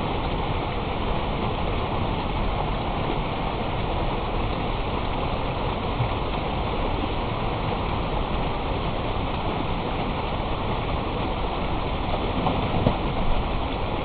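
Steady rush of flowing water, an even unbroken roar.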